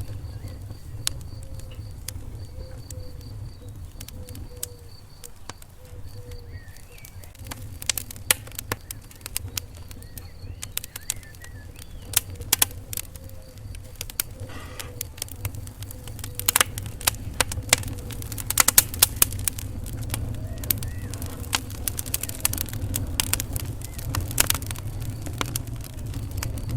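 Wood fire in a fireplace crackling and popping over a low steady rumble of flames, with the pops coming thicker and louder in the second half.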